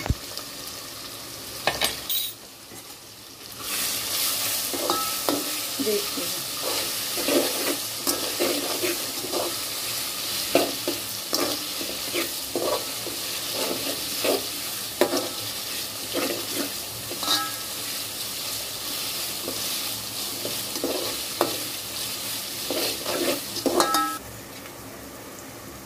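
Sliced onions with green chillies and ginger-garlic paste sizzling in hot oil in a metal pot, the base (baghar) for tahari, while a metal slotted spoon scrapes and clinks against the pot as they are stirred. The sizzling swells about four seconds in and eases off near the end.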